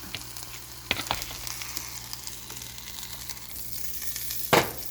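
Food sizzling and crackling in a frying pan, with a few light clicks about a second in and one louder knock near the end, like a utensil striking the pan.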